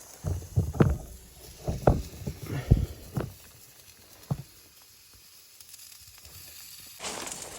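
A run of dull thuds and knocks, about eight in the first three seconds and one more a second later, then a steady hiss with light crackle starting near the end.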